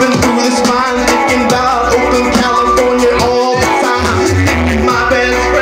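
Live reggae band playing: bass, guitar and drums with a steady beat, amplified through a club PA, between sung lines.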